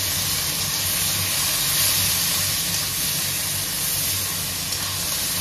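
Chopped tomatoes and onion sizzling steadily in hot oil in a kadai.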